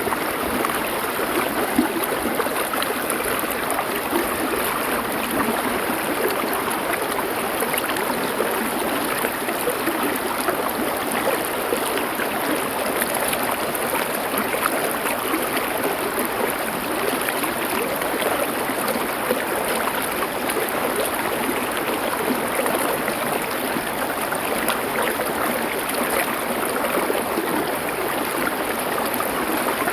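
Stream flowing over stones: a steady rushing and trickling of water with little deep rumble, unchanging throughout.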